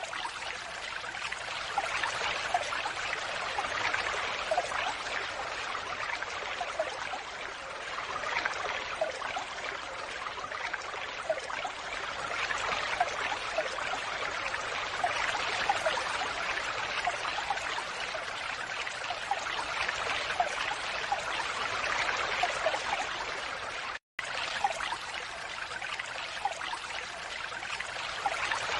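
Water falling and splashing in a steady, continuous rush with many small droplet splashes. The sound cuts out for an instant about 24 seconds in.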